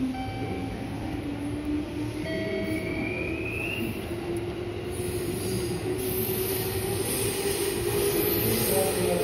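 Train noise in an underground station: a low whine that slowly rises in pitch throughout, over a steady rumble, with a short higher rising whine about two seconds in.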